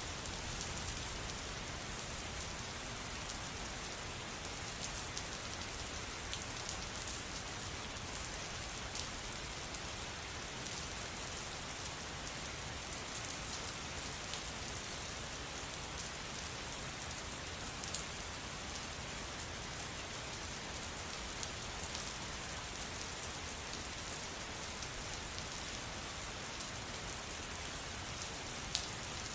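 Steady rain falling, an even hiss with scattered individual drop ticks, a few a little louder than the rest.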